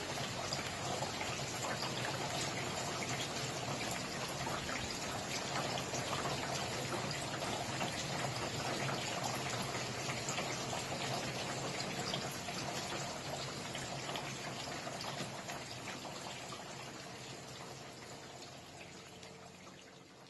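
Steady rain falling, a dense patter of drops, fading out gradually over the last several seconds.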